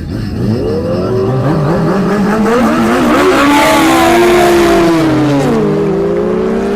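Superbike engines, one a Kawasaki ZX-10R, accelerating hard in a drag race. The pitch climbs through the gears, grows loudest about four seconds in, then drops steeply as the bikes pass.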